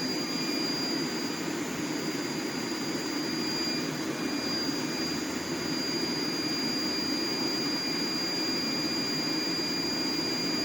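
Heat Star portable propane heater's burner running on its high setting: a steady rushing noise with a faint, steady high-pitched tone over it.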